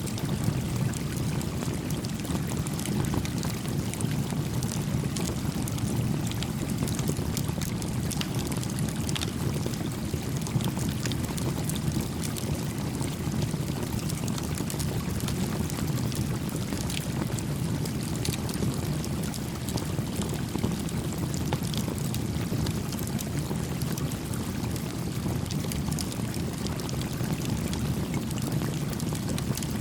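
A small stream babbling steadily, the louder and deeper part of the sound, with a small campfire crackling over it in frequent, scattered small pops.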